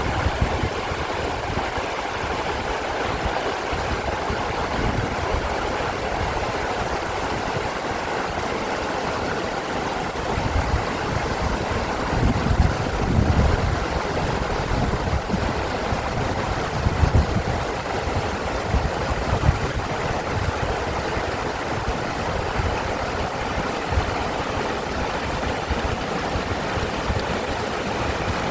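Mountain stream rushing steadily over rocks, with gusts of wind buffeting the microphone now and then, strongest a third of the way in and again just past halfway.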